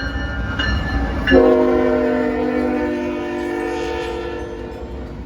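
Freight locomotive's air horn sounding one long, steady blast, starting about a second in and held almost to the end, over the low rumble of the train passing close by.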